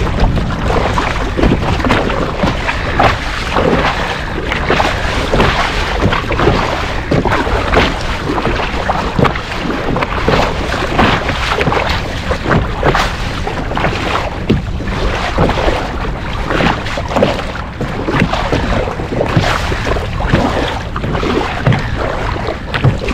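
Wind buffeting the microphone over choppy water splashing around a kayak, with many short splashes throughout.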